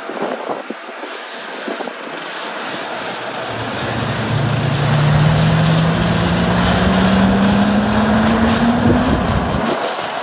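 A propeller airplane's engines, growing louder over the first half, with a propeller hum that rises steadily in pitch, then easing slightly near the end.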